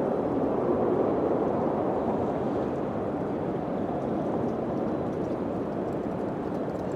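Wind blowing in a steady rushing gust, easing off slightly over the seconds.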